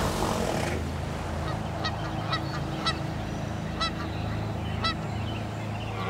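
Water splashing as a humpback whale breaks the surface, then about six short honking bird calls spaced roughly half a second to a second apart over a steady low hum.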